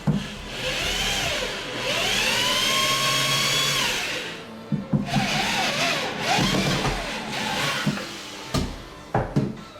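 Power drill running in two long runs, its pitch rising as it speeds up, holding, then dropping off, in the way of driving screws. Several sharp knocks come between and after the runs.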